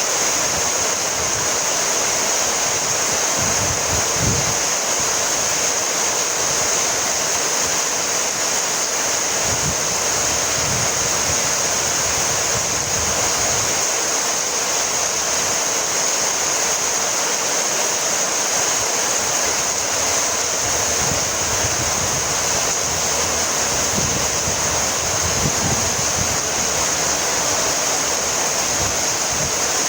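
Heavy rain falling steadily, a dense, even hiss that holds at a constant level.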